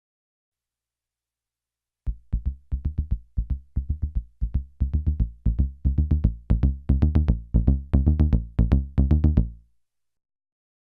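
Behringer Neutron analog synthesizer bass playing a quick run of short, plucky notes through an MXR Carbon Copy analog delay pedal. It starts about two seconds in and fades out shortly before the end.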